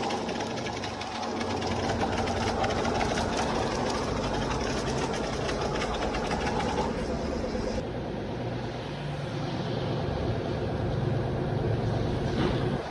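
Two-stroke engine of an old Kawasaki Ninja RR motorcycle running steadily with a rapid, rattly beat; the sound turns duller about seven seconds in.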